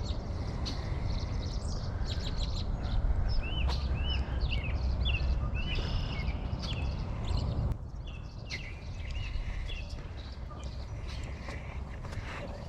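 Small birds chirping in short arched notes, thickest in the middle of the stretch, over a low rumble that drops away sharply a little under eight seconds in.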